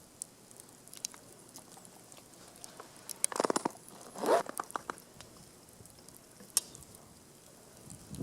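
Dry wood and kindling at a campfire crackling and snapping: scattered sharp clicks, a quick rasping run of clicks about three seconds in, a crunch just after, and one sharp snap near the end.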